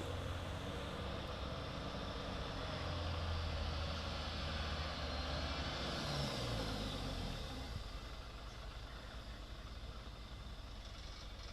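Diesel engine of a Hino truck loaded with sand running under load on a steep descent, with a broad rushing noise over it. The engine note shifts in pitch about six seconds in, and the sound eases off after about eight seconds.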